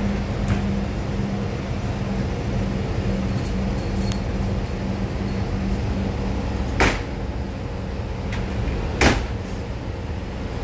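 Inside a stationary Siemens C651 MRT car with its doors open: a steady low hum from the train's onboard equipment, broken by two sharp knocks about two seconds apart, the first around seven seconds in. The hum drops away after the second knock.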